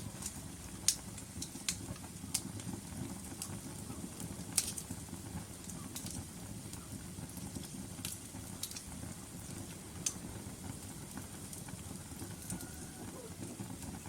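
Logs burning in a fireplace: a steady low rumble of the flames with irregular sharp crackles and pops a second or two apart, the loudest pop about a second in.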